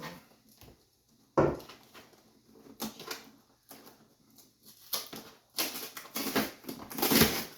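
A parcel being handled and opened: a sharp knock about a second and a half in, scattered small clicks and rustles, then loud rustling of packaging near the end.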